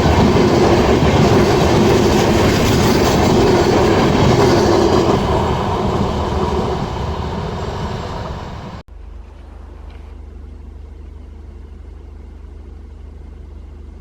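Indian Railways train passing close by, its wheels clattering over the rails, fading away over the next few seconds. About nine seconds in, the sound cuts off abruptly to a low steady hum.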